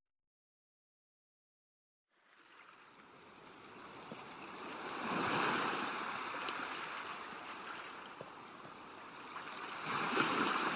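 Digital silence for about two seconds, then ocean surf fades in: waves washing in twice, one swell about five seconds in and another near the end.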